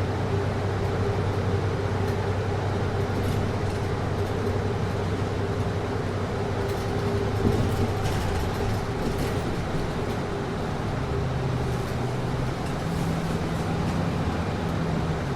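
Inside a city bus, the air conditioning makes a steady hum and rush of air, with the bus's low running drone underneath. The low hum shifts in pitch about two-thirds of the way through.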